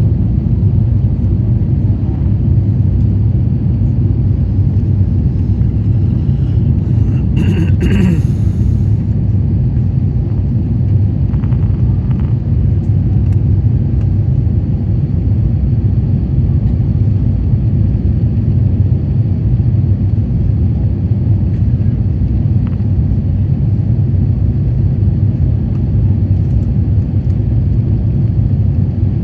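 Steady low rumble inside the cabin of an Airbus A350-900 in flight: its Rolls-Royce Trent XWB engines and the airflow, heard through the fuselage. A brief higher-pitched rustle or clatter comes about seven to eight seconds in.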